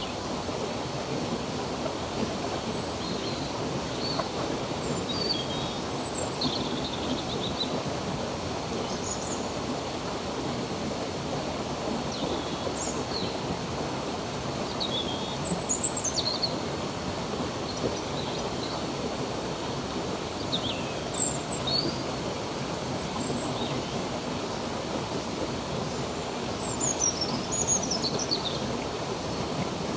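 Steady rush of running stream water, with small birds chirping on and off above it, in clusters of quick rising and falling calls.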